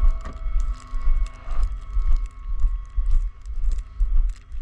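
Footsteps crunching through deep snow at about two steps a second, with wind buffeting the microphone.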